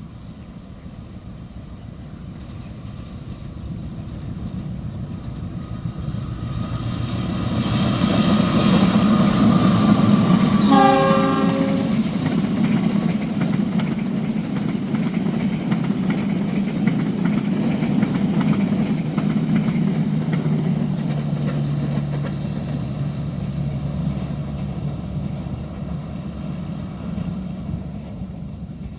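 A diesel locomotive-hauled train approaches and passes, its rumble building, with a short horn blast about eleven seconds in. After the horn the wagons roll by with clickety-clack, and the sound slowly fades as the train moves away.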